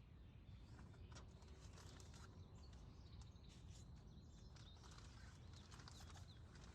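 Near silence: faint outdoor ambience with a low steady rumble, scattered faint ticks and a few faint bird chirps.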